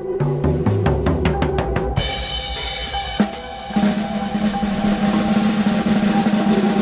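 Drum kit played live: a run of quick strikes stepping down in pitch like a fill down the toms, a single sharp hit about three seconds in, then a fast drum roll over a steady low hum.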